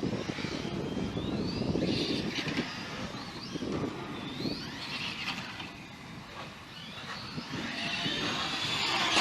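Radio-controlled car's motor whining in repeated rising and falling sweeps as it speeds up and slows around the track, over rough tyre and ground noise.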